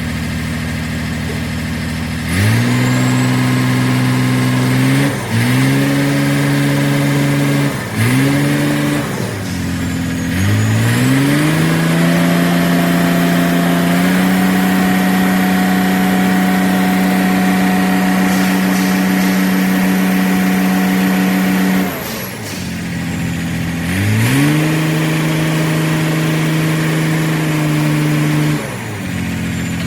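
Shacman F3000 dump truck's diesel engine idling and revved up repeatedly: three short revs in the first ten seconds, a long steady high rev from about ten to twenty-two seconds in, and another near the end. The engine is held at raised revs to drive the hydraulic pump while the tipper bed's lifting system is tested.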